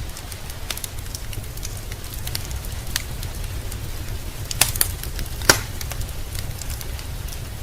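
Wood fire crackling with scattered sharp pops, the two loudest about four and a half and five and a half seconds in, over a steady low rumble.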